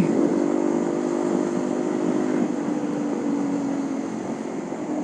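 Honda CB150R motorcycle engine running at a steady cruise, with wind noise over the ride.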